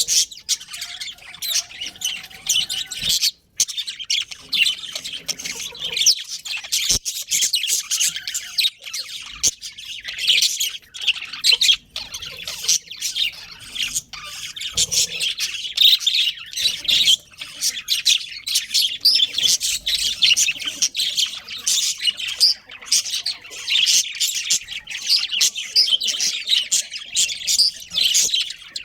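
Budgerigars chirping and chattering nonstop, many short high calls overlapping.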